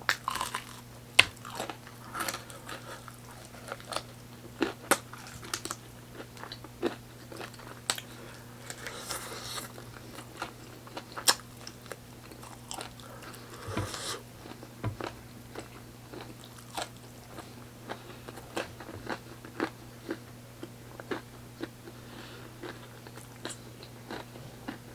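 Close-miked eating: a person biting and chewing fried chicken with melted cheese and rice. Irregular crunches and wet mouth clicks are heard, with the sharpest about a second in. A steady low hum runs underneath.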